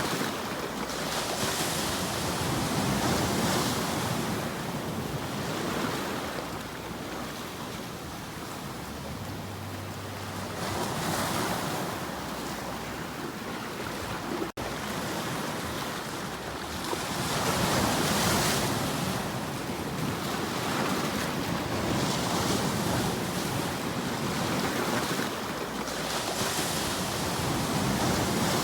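Ocean waves washing on a shore, the surf swelling and falling back every few seconds, with a momentary dropout about halfway through.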